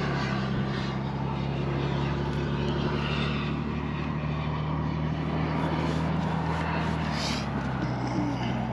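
An engine running steadily, a low even drone made of several held tones, which shifts slightly in pitch near the end.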